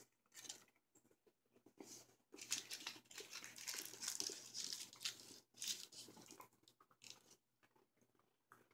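Faint crunching and chewing close to the microphone as a piece of peppermint bark candy is bitten and eaten, in irregular crackly spurts that are busiest from about two to six seconds in.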